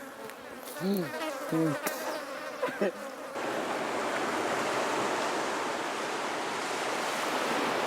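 Flies buzzing, their pitch gliding up and down as they pass close. A little over three seconds in, this cuts to a steady rush of sea surf.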